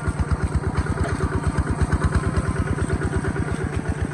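Kubota ZT140 walking tractor's single-cylinder diesel engine running steadily, its exhaust beating about ten times a second.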